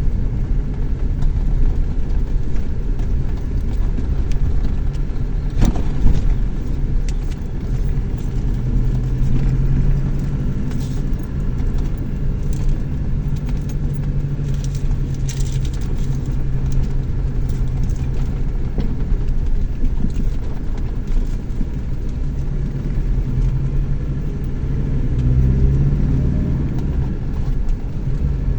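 Chevrolet S10 Tornado pickup driving: steady engine and road rumble, with one sharp knock about six seconds in.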